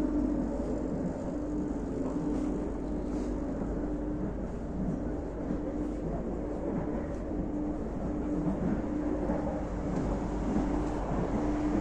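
A passenger train running: a steady rumble with a hum that drops out now and then.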